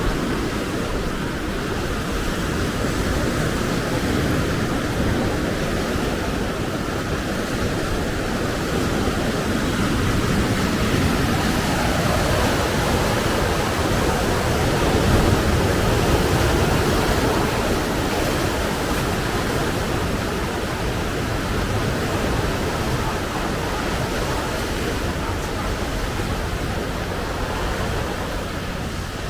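Strong wind blowing over the microphone: a steady rushing noise with heavy low rumble, swelling a little about halfway through.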